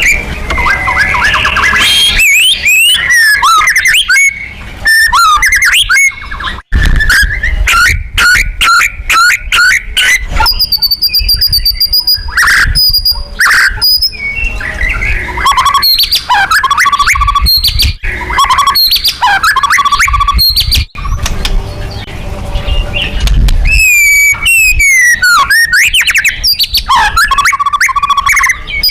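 White-rumped shama (murai batu) singing loud and nonstop: a fast, varied string of sweeping whistles, trills and rattling chatter.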